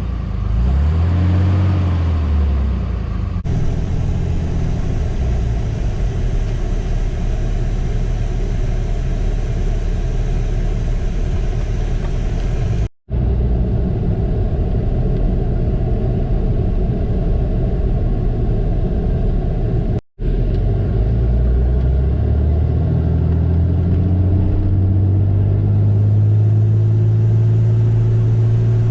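5.9 Cummins turbo diesel in a 2007 Dodge Ram 3500 running, as the newly installed gas pedal is tried. Engine speed rises and falls briefly at the start, runs steady, then climbs from about two-thirds of the way in and holds higher. The sound cuts out very briefly twice.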